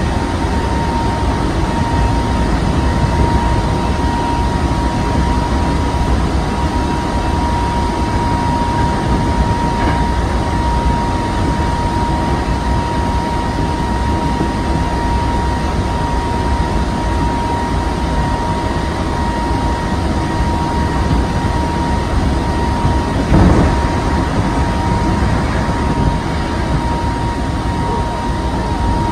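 Hankyu 7000 series electric train running at speed, heard from inside the front car: a steady rumble with a thin, steady high whine over it. About 23 seconds in there is a brief louder jolt.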